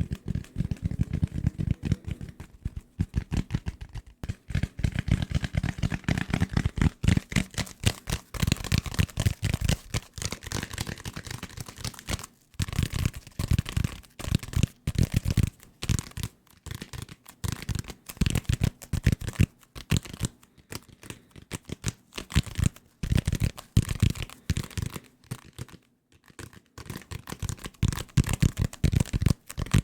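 Fingers tapping fast on assorted desk objects, in quick, dense runs of many taps a second with a few brief pauses; some stretches are deep thuds and others sharper, brighter clicks.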